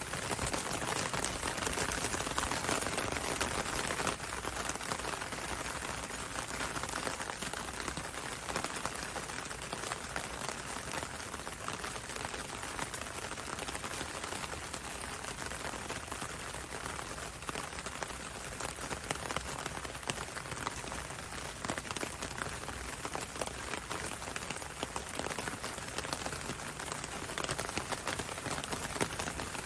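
Steady gentle rain, a dense patter of many small drops, falling on a window and on a road.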